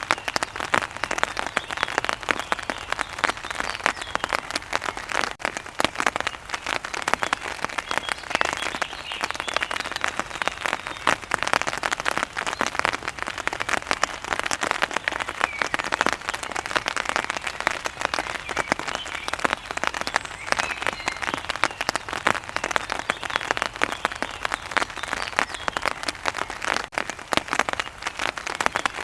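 Steady rain falling on a hard surface: a dense, unbroken patter of many drops.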